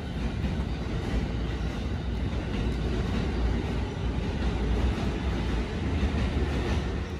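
E217 series electric train pulling out and accelerating away: a steady, loud rumble of the train's running noise on the rails.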